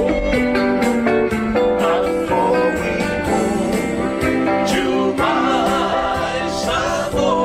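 Live Samoan band music: steadily strummed guitars under held notes, with singing.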